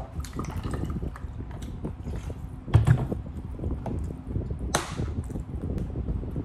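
Close-miked eating sounds, a person chewing food with small wet mouth clicks, with a dull thump about three seconds in and a short sharp hiss near five seconds in.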